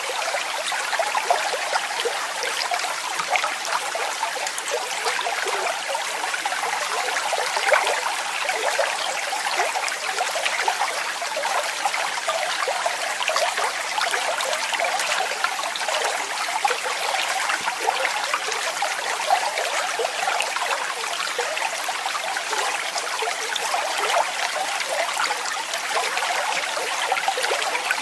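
Steady splashing of falling water from a small waterfall or cascade, bright and even, without a deep rumble.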